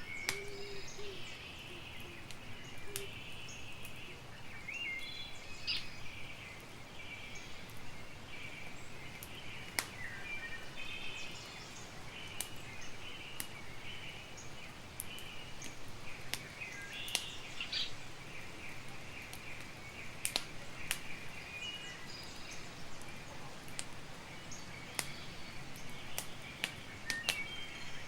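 Campfire crackling, with irregular sharp pops over a steady hiss, while birds chirp throughout.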